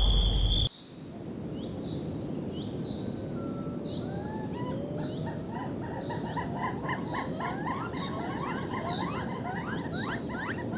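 Rainforest animal chorus: many short chirps and rising whistles, growing denser, over a steady hiss. It opens with a loud, steady, high-pitched buzz that cuts off abruptly under a second in.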